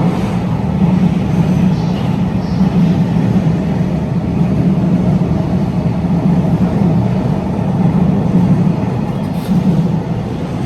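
Freight train passing through a station, a steady, loud rolling noise of wheels on rails that begins to fade near the end.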